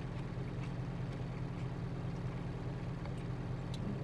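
Steady low hum of a truck's engine idling, heard from inside the cab, with a few faint clicks.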